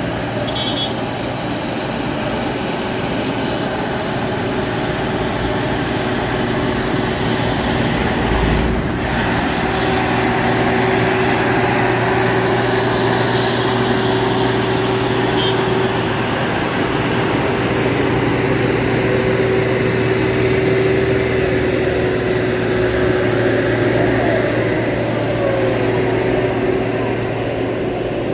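Truck engines running steadily under load, with road traffic noise.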